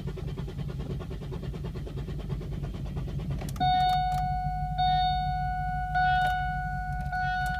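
Key turned to start a 2002 Pontiac Grand Prix's 3.8 V6 that will not crank: fast relay clicking with no cranking, over a steady low hum. About three and a half seconds in, a steady electronic warning tone starts and restarts with a click about every second and a bit. The car's electrics are short of power, with the dash lights dim.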